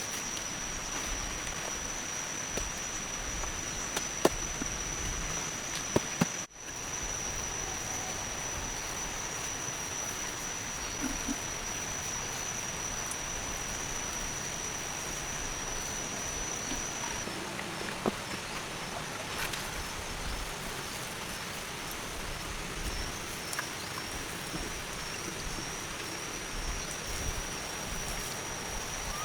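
Rainforest ambience: an even hiss with a steady, high-pitched animal drone running through it, and a few sharp clicks or knocks about four and six seconds in.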